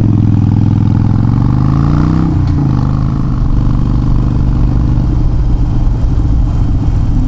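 Harley-Davidson Iron 883's air-cooled V-twin pulling hard away from a junction, its pitch rising for about two and a half seconds. It drops at a gear change, then runs steady at cruising speed under wind rush.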